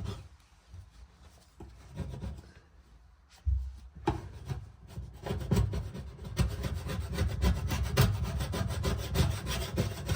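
A hand paint scraper scraping paint, softened by paint stripper, off the timber of an antique cabinet in quick repeated strokes. It is quieter and sparse for the first few seconds, then turns to steady fast scraping about three and a half seconds in.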